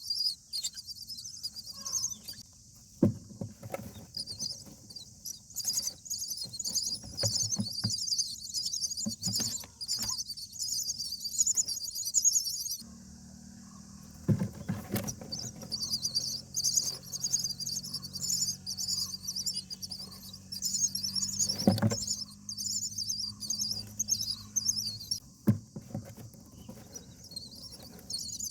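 Indian myna nestlings chirping, a dense run of fast, high-pitched calls that breaks off briefly about halfway through, with a few sharp knocks in the nest.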